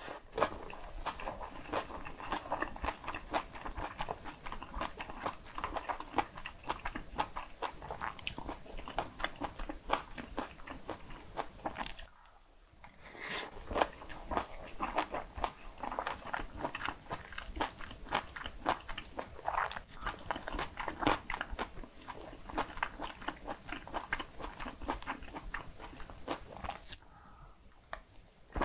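Close-miked mouth sounds of eating bibimbap made with raw radish salad and cockles, and spoonfuls of kimchi soft-tofu stew: a fast, steady run of wet chewing and crunching clicks. It pauses briefly about twelve seconds in and again near the end.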